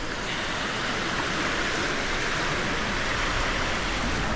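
Surf washing up on a sandy beach: a steady, even rush of water.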